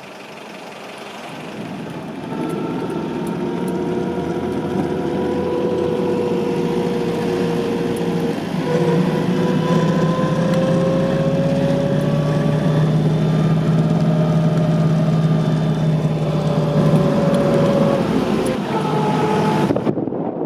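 1947 Alvis TA-14's four-cylinder engine pulling away and accelerating, rising in pitch and loudness. About eight seconds in the pitch breaks briefly, then the engine runs on steadily at road speed.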